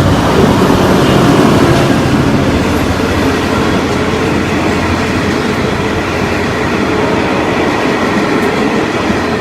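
A train passing close by, its wagons rolling along the rails with a steady, loud rumble. It is loudest about a second in and slowly eases as the train goes by.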